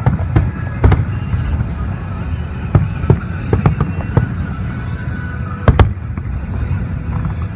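Aerial fireworks shells bursting: about ten sharp bangs at irregular intervals over a steady low rumble, the loudest two in quick succession near the end.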